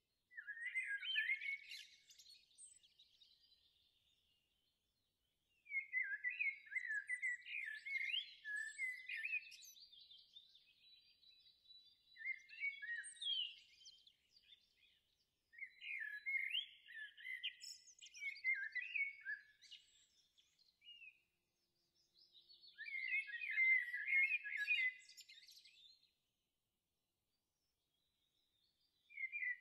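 Songbird singing in bouts of quick, high chirps and trills, each lasting a few seconds, about five in all, with silent gaps between them.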